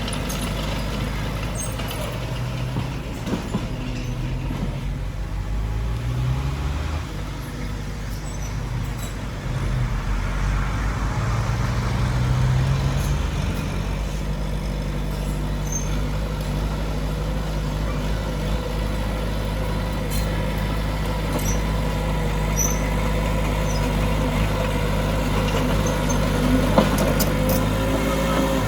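Diesel engines of heavy earthmoving machinery running under load, their pitch swelling and easing a few times as they work. There is a single sharp knock near the end.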